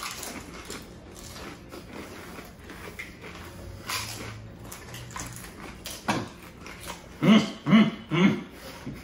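Several people chewing and crunching pani puri with their mouths full, crisp puri shells cracking in scattered small crunches. Near the end come three short, muffled laughs.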